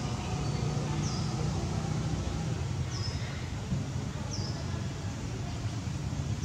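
Outdoor ambience: a small bird repeats a short, high chirp that slides downward, about once every one and a half seconds, over a steady low hum.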